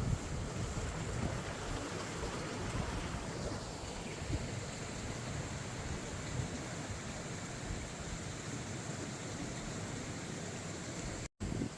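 Steady rush of water spilling over a small waterfall, with a low irregular rumble, cutting out for an instant near the end.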